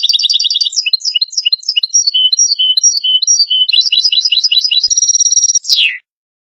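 European goldfinch singing one fast twittering phrase: rapid trills and quick repeated high notes, closing with a harsh downward-sliding buzz about six seconds in.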